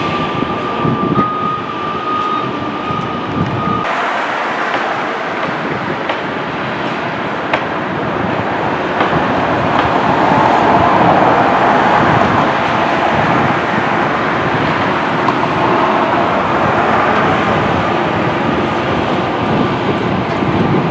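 Steady running noise of a train moving on its rails. A thin, high steady tone sounds over it for about the first four seconds and then cuts off.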